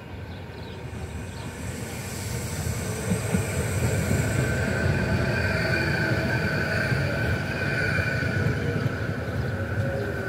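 A Renfe Media Distancia electric multiple unit arriving and rolling past along the platform. The rumble of its wheels grows louder over the first few seconds, then holds steady, with a high whine from the running gear over it.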